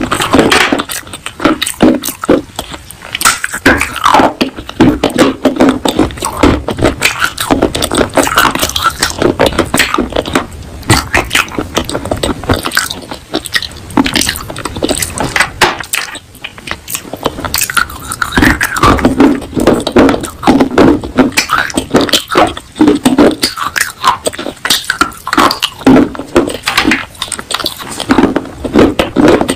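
Chewing and crunching of broken baked clay pot pieces: many crisp crunches in quick runs, with brief lulls between mouthfuls.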